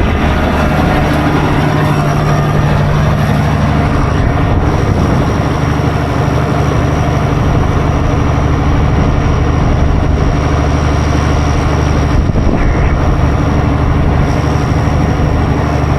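Livestock feed mixer running while it mixes a batch of feed: a loud, steady mechanical drone of the machine and its drive, with a stronger low hum setting in about a second in.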